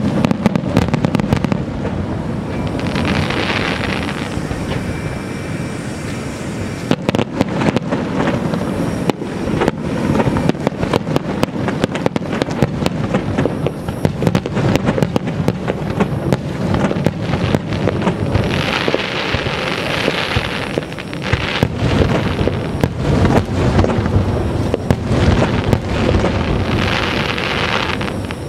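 Aerial fireworks finale: a continuous barrage of shell bursts, bang after bang in quick succession. Three times, a few seconds in, about two-thirds of the way through and near the end, it swells into a stretch of dense crackling hiss.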